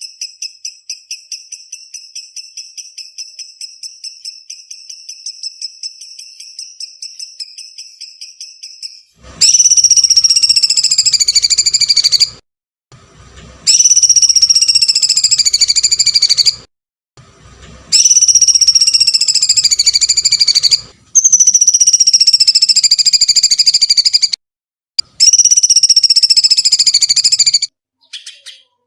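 A songbird's rapid ticking trill of about six high notes a second, then five long, loud, wavering screeching calls of about three seconds each, with brief silences between them.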